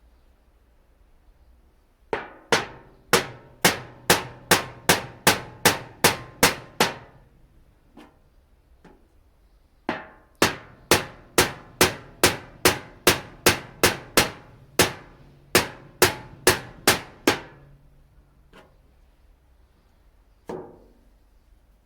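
A hammer striking a flathead screwdriver against a metal rice-cracker tin, punching holes in it. The strikes come in two fast runs of about a dozen each, roughly two or three a second with a pause between, then one lone strike near the end.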